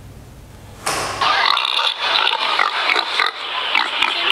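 Pigs grunting, many short calls overlapping, starting about a second in.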